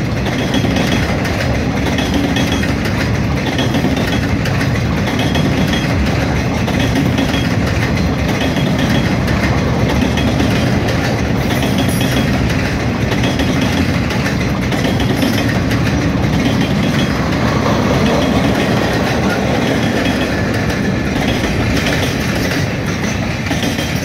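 Empty rail-train flatcars with rail racks rolling past on jointed track: steady noise of steel wheels on the rails, with the clack of the wheels over the joints. The noise eases off right at the end as the last car goes by.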